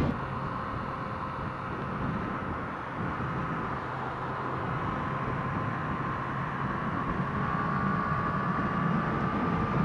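Motorcycle running at freeway speed, a steady mix of engine and wind noise, with a faint engine tone climbing slowly over the second half.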